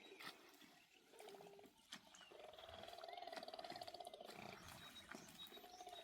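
Faint, drawn-out animal call with a buzzing, pulsing tone, lasting about two seconds from about two seconds in, with a shorter call near the end.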